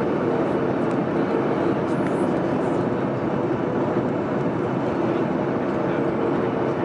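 Steady cabin noise of a Boeing 737-900ER airliner in flight: a constant rush of airflow with an even engine drone humming through it.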